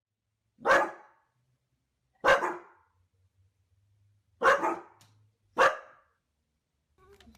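A dog barking four times, single barks spaced a second or two apart.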